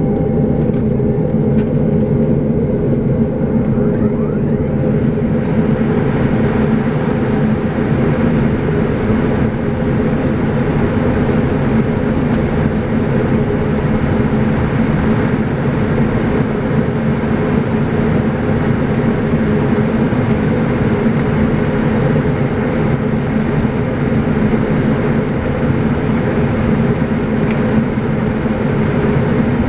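Steady drone inside the cabin of a Saab 340B twin turboprop in flight: its General Electric CT7 turboprops and propellers, with a constant hum of propeller tones. A higher airflow hiss fills in about five seconds in and stays.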